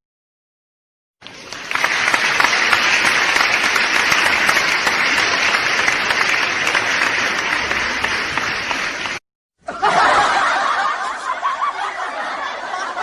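Studio audience laughing and applauding, laugh-track style, for about eight seconds; after a brief break, a second burst of crowd laughter.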